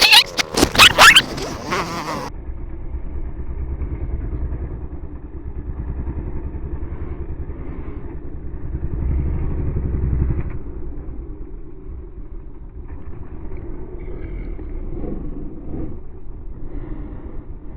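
KTM 250 dirt bike engine revving hard in quick, rising bursts, then about two seconds in the sound turns muffled and lower to a steady running drone that swells up and falls back around the middle.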